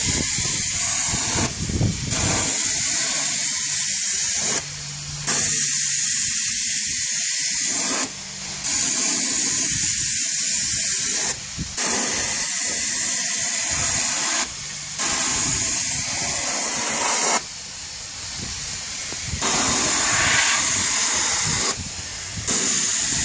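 Spray gun hissing as coating is sprayed onto a headlight lens. It comes in passes of about three seconds, broken by short pauses and one longer one.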